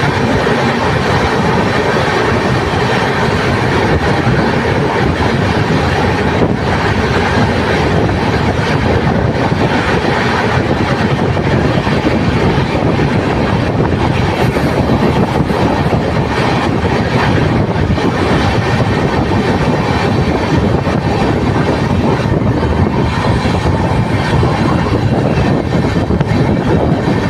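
Train running along the track with a steady, loud rumble of wheels on rails.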